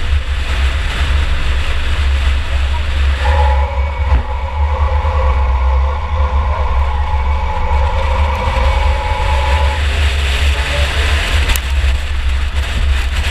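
In-car sound of a 2004 Chevy Impala derby car running in an enduro race: heavy engine and drivetrain rumble with buffeting on the camera. From about three seconds in to about ten seconds in, a steady two-note tone holds over it, and a single sharp knock comes near the end.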